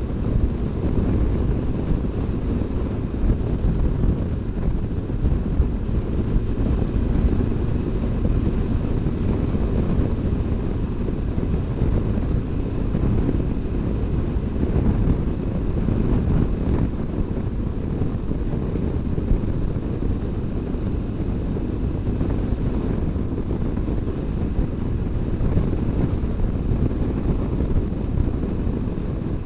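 BMW R1200GS Adventure's boxer-twin engine running steadily under a ride, mixed with wind rushing over the microphone.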